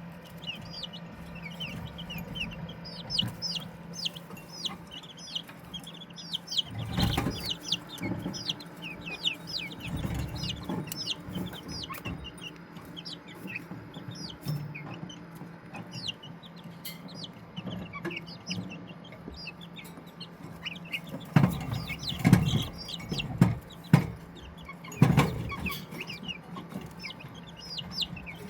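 A brood of chicks peeping continuously, with many short, high, falling peeps, over a steady low hum. There are a few louder knocks and bumps about seven seconds in and again between about 21 and 25 seconds.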